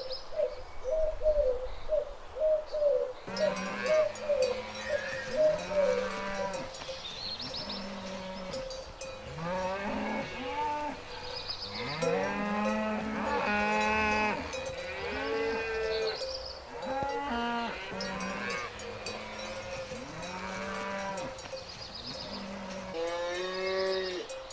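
Cattle mooing: long, drawn-out calls that bend in pitch, several overlapping, from about three seconds in. Before that, a quick run of short repeated notes.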